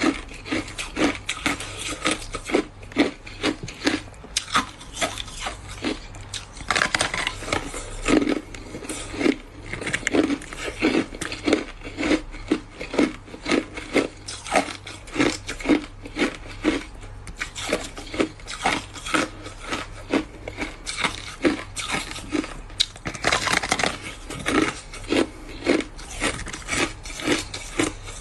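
Ice being chewed: a steady run of sharp, crisp crunches, bite after bite, roughly one or two a second.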